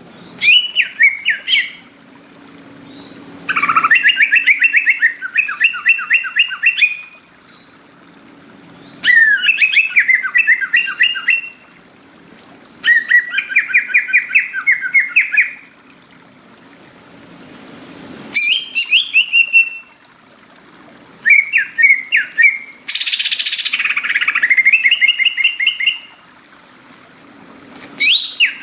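Cucak ijo (greater green leafbird) singing loud, rapid trilled phrases, each one to three seconds long, with short pauses between them. A harsh rasping burst comes near the end.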